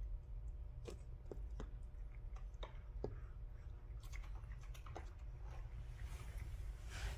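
A cat chewing food, a string of small irregular crunching bites over a low steady rumble.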